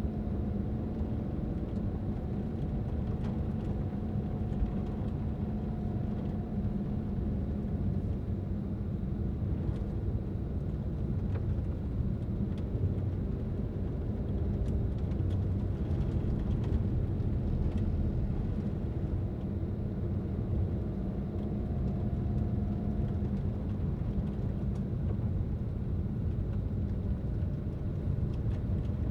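A car driving at a steady pace: a continuous low rumble of engine and tyre noise with a faint steady hum over it.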